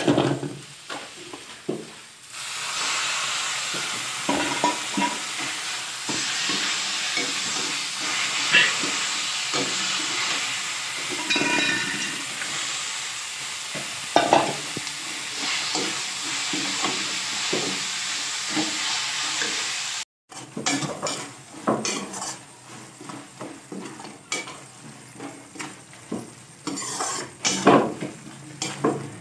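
Onions, garlic and masala frying in oil in a steel kadai: a steady sizzle that swells about two seconds in, with a slotted spatula scraping and knocking against the pan as it stirs. The sound cuts out for a moment about two-thirds through. After that the sizzle is lower and the spatula scrapes and clatters more.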